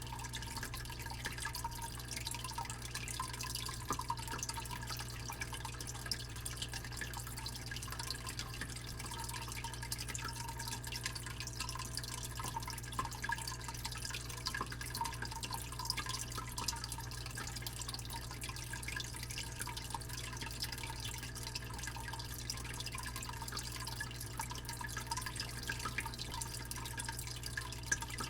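Fish tank pump giving a steady low hum under a soft, continuous trickle and dripping of aquarium water.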